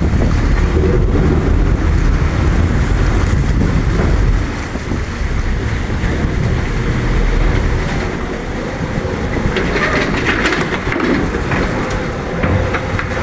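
Steady low rumbling noise of an electric ferry underway, with wind buffeting the microphone. It is loudest for the first four seconds, then eases a little.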